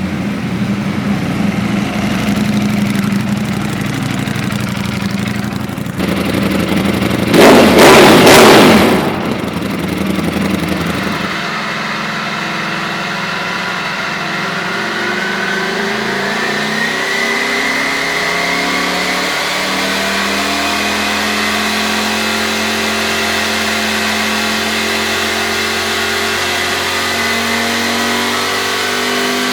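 Ducati Panigale V4 Speciale's V4 engine running through an Akrapovic titanium full race exhaust. About seven seconds in there is a very loud burst lasting about a second and a half, then the engine runs on with a shifting, partly rising pitch.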